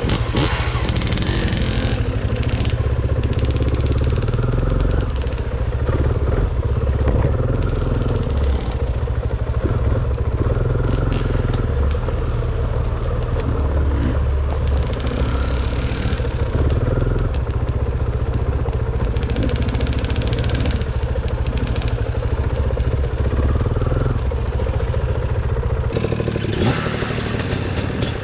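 Enduro dirt bike engine running and revving up and down as it is ridden over rough trail, with frequent knocks, clatter and scrapes.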